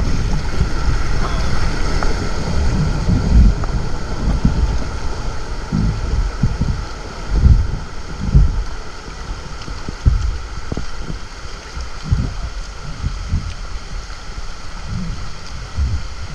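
Wind buffeting the microphone in irregular low gusts, over a steady wash of flowing water.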